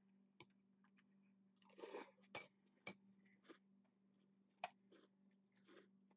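A person eating from a bowl with a spoon: faint chewing and crunching in short bursts, with a few sharp clicks, the loudest about four and a half seconds in, over a low steady hum.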